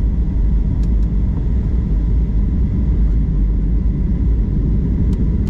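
Steady low rumble of an airliner's engines and rushing air, heard inside the cabin during the descent to land.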